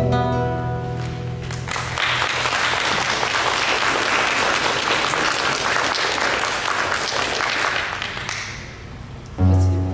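The last chords of a plucked-string accompaniment ring out and stop, then an audience applauds for about six seconds and dies away. A new plucked-string accompaniment starts just before the end.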